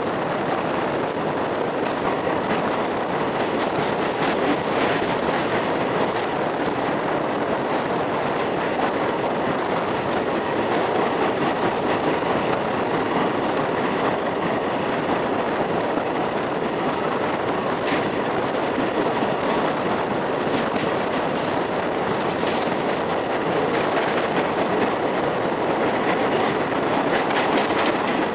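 Express train's coaches running at speed through a railway tunnel: a steady noise of wheels on the rails, heard from the open doorway inside the tunnel, with a few faint clicks.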